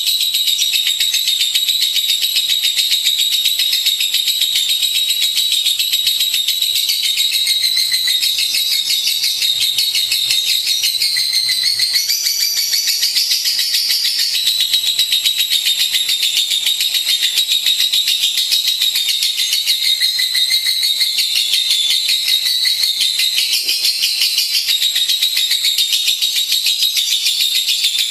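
Lovebird singing a continuous, rapid, high-pitched chattering trill.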